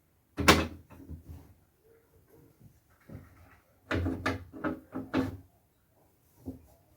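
Curtains being pulled open along their rail: a loud scrape about half a second in, then a quick run of about five scrapes and knocks around four to five seconds in, and one more near the end.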